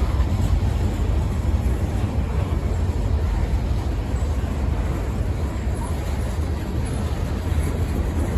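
Freight train rolling past, a steady low rumble with no horn.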